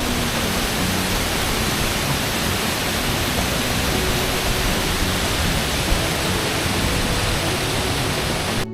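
Waterfall rushing: a steady, even noise of falling water that cuts off suddenly near the end.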